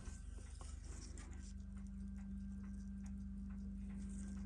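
Faint, irregular small clicks and taps of watchmaker's tools on a watch movement during teardown, over a steady low electrical hum that grows a little louder about two seconds in.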